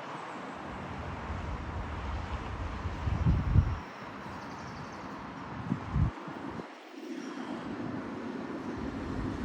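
Tram and street traffic running, a steady rumble broken by two short low thumps about three and a half and six seconds in.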